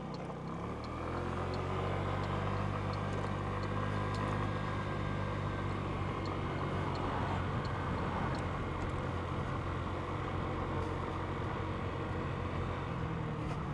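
Genuine Buddy 125 scooter's single-cylinder four-stroke engine pulling away and then running at a steady cruise, heard from on board. It is a little louder after the first second or so. Faint high ticks repeat at an even pace throughout.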